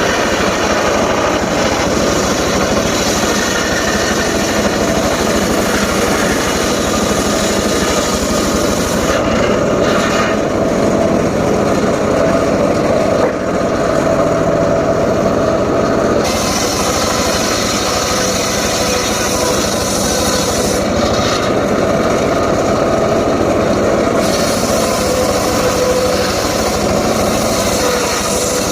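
Home-built circular saw rig running steadily while sawing teak wood, a loud continuous machine sound. The highest part of the sound falls away twice for several seconds, about a third of the way in and again later.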